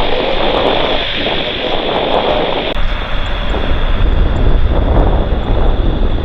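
Jet airliner engines running loud and steady, a heavy low rumble with a constant high whine on top.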